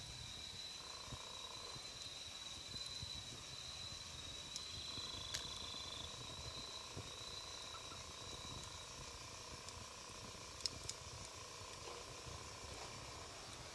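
Wood campfire burning with a low rush and a few sharp crackles and pops, two close together near the end. A steady high insect trill runs through it and fades out about two-thirds of the way through.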